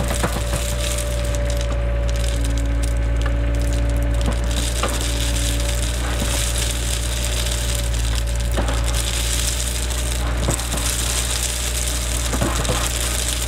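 Cat 307 excavator's diesel engine running steadily with a constant whine, under a crackling noise with scattered sharp clicks and knocks.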